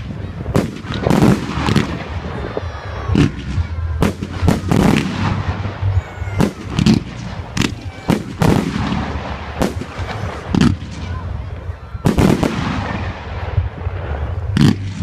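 Fireworks display: a rapid, irregular run of shells bursting with sharp bangs, each trailing off in a rumbling echo. Faint whistles can be heard between the bangs.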